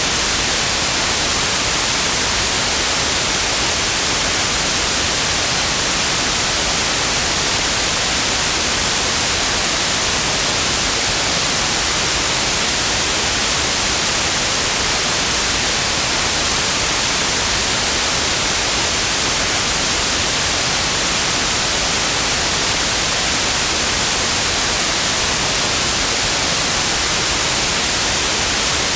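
Pure white noise: a steady, even hiss, unchanging throughout.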